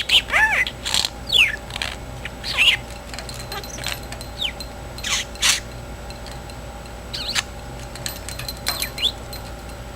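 Pet budgerigar giving scattered short chirps and squeaky calls with quick pitch glides, bunched near the start and again near the end, with a couple of sharp clicks in the middle.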